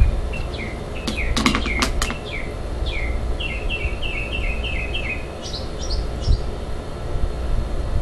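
A songbird singing: a run of short, downslurred whistled notes repeated about three a second, followed by a few higher chirps. A few sharp clicks come about a second or two in, over a steady low background rumble.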